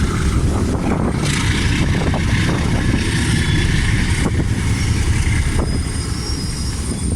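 Loud train noise: the heavy, steady low rumble of a moving train. A harsher hissing noise rises over it from about a second in to about four seconds in, and faint thin high squeals come through near the end.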